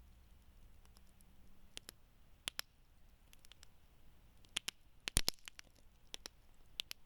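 Wood fire crackling: scattered sharp pops and snaps of burning wood, loudest in a quick cluster about five seconds in, over a faint low hiss.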